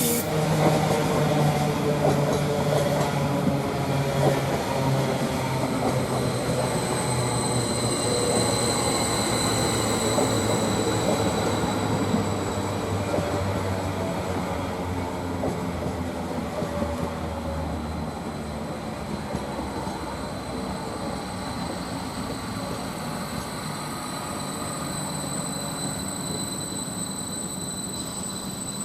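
Class 745 electric multiple unit slowing at the platform, its motor tones falling in pitch as it brakes. After about twelve seconds it settles to a quieter, steady hum with a thin high whine as it stands.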